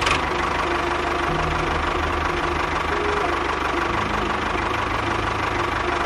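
A small motor runs steadily under background music with a stepping bass line.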